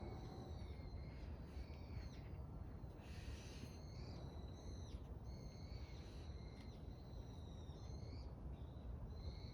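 Faint high whistled bird calls, repeated many times, over a low steady background rumble.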